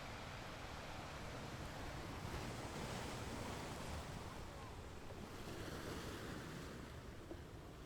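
Ocean surf: a wave washes in, swelling over a couple of seconds and then easing back, with wind.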